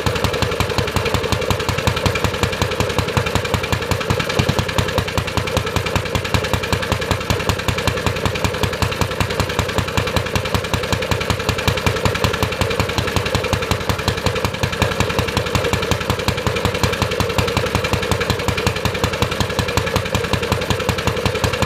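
Briggs & Stratton Model FH single-cylinder engine running steadily, its exhaust giving a rapid, even train of firing pulses.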